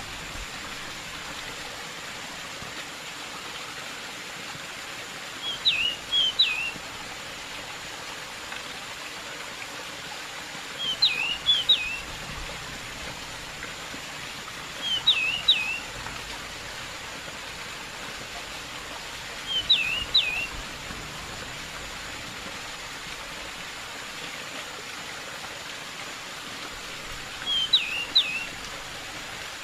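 Pied bushchat singing five short phrases of a few quick, high, down-slurred notes, one every four to six seconds, over the steady hiss of running water.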